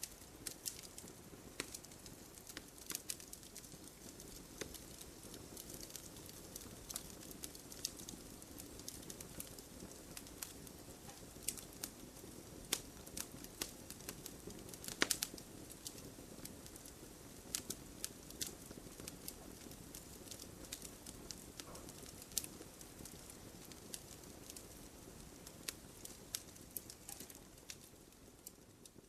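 Wood fire crackling in a fireplace: irregular sharp pops and snaps over a steady low rush of burning, easing off slightly near the end.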